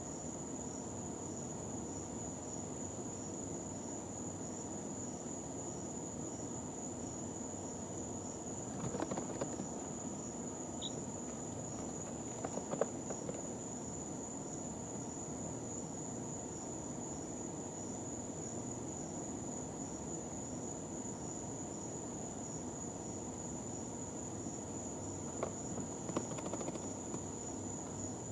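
Day-old chicks stirring now and then in their brooder bedding, with brief rustles and scratches, and a single short peep about eleven seconds in. A steady high-pitched whine runs underneath throughout.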